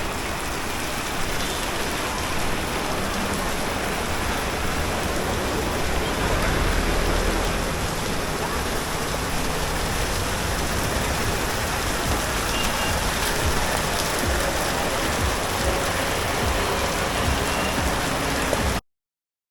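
Steady rain falling on the street, an even hiss with a low rumble swelling briefly in the middle; the sound cuts off suddenly near the end.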